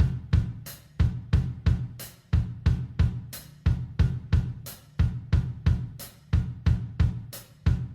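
Background music: a steady drum-kit beat of snare, kick drum and cymbals, about three hits a second.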